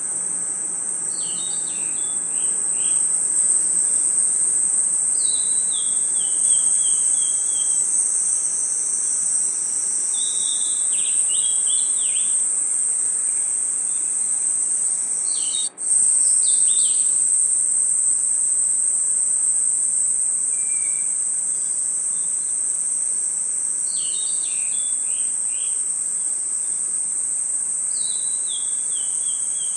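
Night-time crickets trilling steadily and high-pitched, with short descending chirp phrases that sound bird-like recurring every few seconds. The sound drops out for a split second about halfway through.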